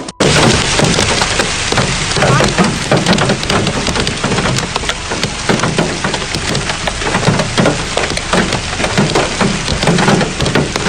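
Hailstones and heavy rain pelting hard surfaces: a steady, dense rush dotted with many sharp clicks and cracks of individual stones striking.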